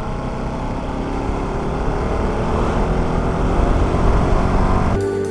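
Motorcycle engine running while riding, its sound growing gradually louder. Near the end it cuts off abruptly into background music.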